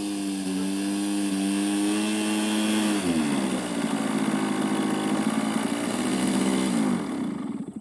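Radio-controlled model airplane engine running steadily, then throttled back in two steps, about three seconds in and again near the end, its note dropping each time as the plane comes in to land.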